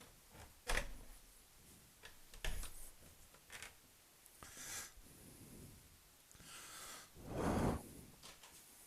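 A few sharp knocks and brief rustling noises in a small enclosed room, the loudest and longest rustle near the end.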